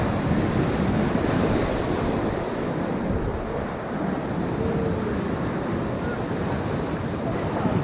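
Steady rush of river whitewater around a raft, with wind buffeting the microphone.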